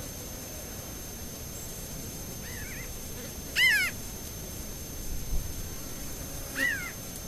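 A bird giving short arching calls: a faint one, then a loud one a few seconds in, and another near the end.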